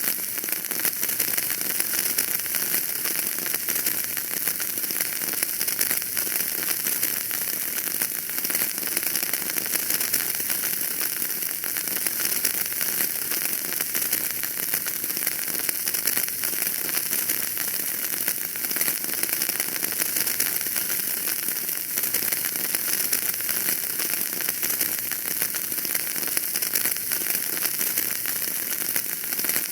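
Wood fire burning in a fireplace, with steady dense crackling and a continuous hiss of fine pops.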